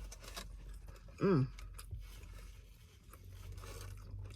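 Paper food wrapper rustling and crinkling as it is handled, with one short hummed voice sound, rising then falling in pitch, about a second in.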